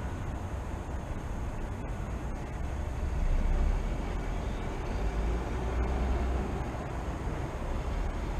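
City ambience: a steady low rumble of road traffic that swells briefly about three seconds in.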